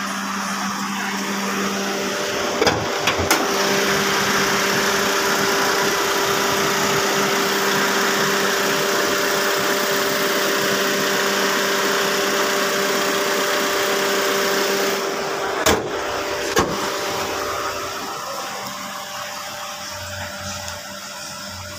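Perodua Myvi's 1.3-litre four-cylinder petrol engine idling steadily, with the hum and hiss of the engine bay. A few sharp clicks come about three seconds in and again near sixteen seconds, and the engine sound grows quieter near the end.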